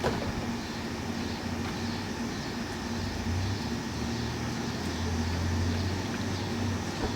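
A vehicle engine running steadily as a low hum over outdoor street noise, growing somewhat louder past the middle.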